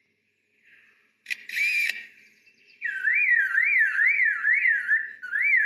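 Lyrebird mimicking man-made sounds: a short burst of rapid clicks like a camera shutter on a motor drive, then, about three seconds in, a loud car-alarm siren that sweeps up and down about two and a half times a second.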